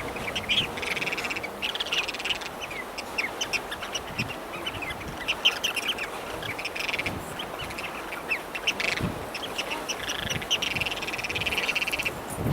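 Birds calling: a stream of short, high chirps with stretches of fast, rattling chatter, over a steady background hiss.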